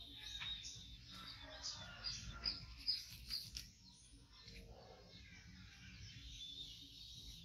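Small birds chirping, a quick series of short high notes at about two or three a second, loudest in the first half and fading after that.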